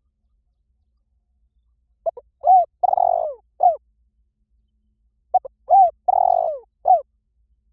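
Spotted dove singing its cooing song twice, about two seconds in and again near the end. Each phrase is a few quick short coos, a longer burry coo and a closing short coo. It is a decoy call, the song used to lure doves.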